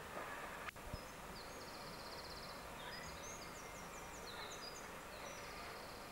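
Small birds chirping and trilling in quick high phrases over a steady background hiss, with one sharp click about two-thirds of a second in.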